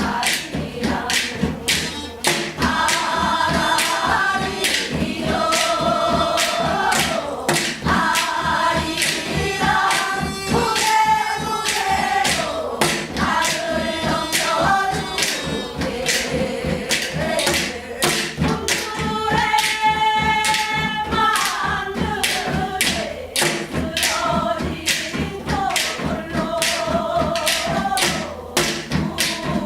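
Korean gyeong-seodo folk song: long, held sung notes that bend in pitch, over a steady beat of drum strokes.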